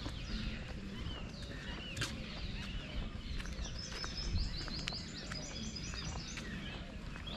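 Birds chirping outdoors, with a quick run of repeated high chirps about four seconds in, over a steady low outdoor rumble.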